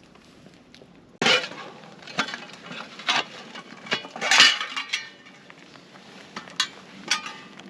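Camp cookware being handled: an irregular run of metal clinks, knocks and rustling that starts sharply about a second in, busiest in the middle, with a few more sharp clinks near the end.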